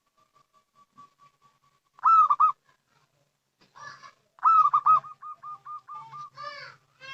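Zebra dove (perkutut) cooing. A faint run of short soft notes is followed by loud cooing phrases about two seconds in and again midway, then a rapid string of short staccato coos and falling notes near the end.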